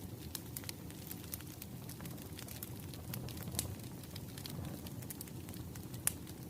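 Wood fire crackling: frequent small sharp pops and snaps over a low steady rumble of flames, with one louder pop near the end.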